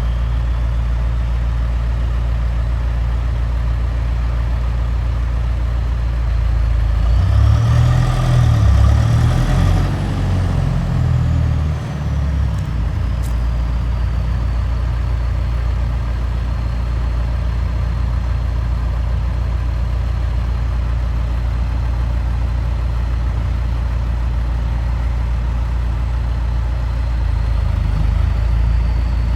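Leaf collection truck's heavy engine running with a steady low rumble. About seven seconds in it grows louder with a rising whine, then a high whine slowly falls away and settles.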